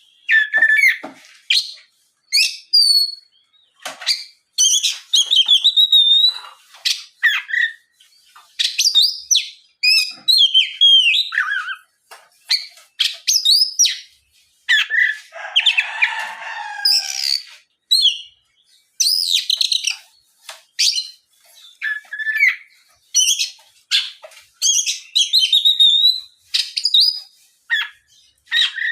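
Oriental magpie-robin (kacer) in full song: a rapid run of varied whistled and chirping phrases separated by short pauses, with a harsh, raspy phrase about halfway through.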